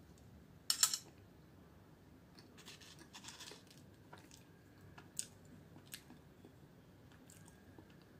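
Eating sounds: a short crackly bite into a piece of milk cake a little under a second in, then faint chewing and a few light clicks.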